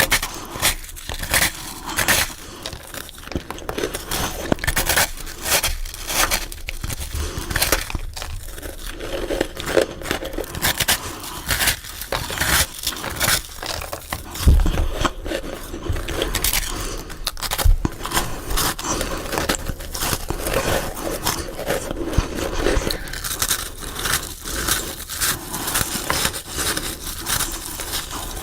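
Close-miked biting and chewing of freezer frost: a dense, continuous run of crisp crunches and scrapes, sped up.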